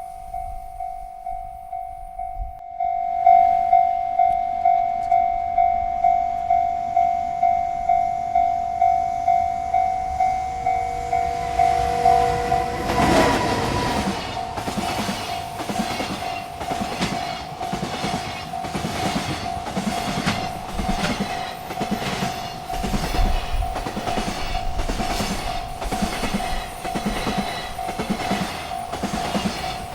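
Railroad crossing bell dinging steadily, about two strokes a second, louder from about three seconds in. Midway a freight train arrives with a brief horn, then its cars clatter past with a regular clickety-clack over the rail joints while the bell keeps ringing.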